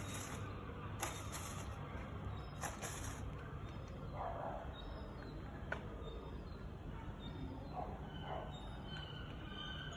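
A gull calling a few short times over a steady low outdoor rumble, with brief hissing rustles in the first few seconds.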